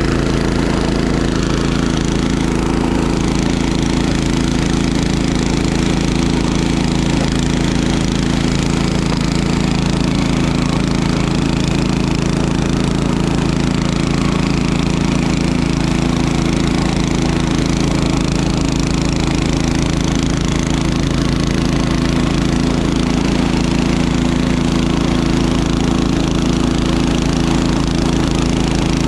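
Small engine running steadily at constant speed, with no change in pitch or loudness.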